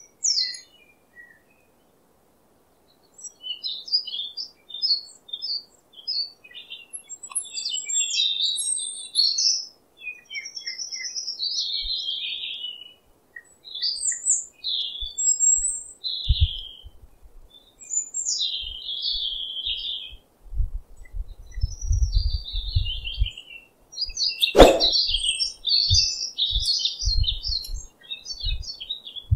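Small birds chirping in a steady stream of short, high calls. Dull low thumps come in the second half, and one sharp knock near the end is the loudest sound.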